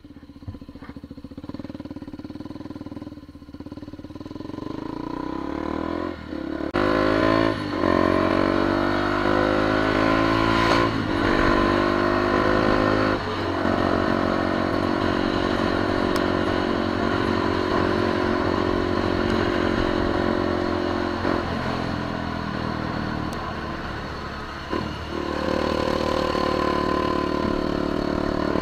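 KTM Duke 200's single-cylinder engine pulling away and accelerating through the gears, its pitch rising and dropping back at each shift, then running at a steady cruise. A rushing hiss, typical of wind on the microphone, comes in about seven seconds in.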